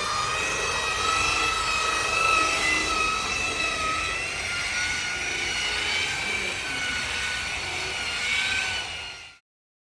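Steady high whine of an electric motor running, its pitch wavering slightly over a rushing noise, cutting off abruptly near the end.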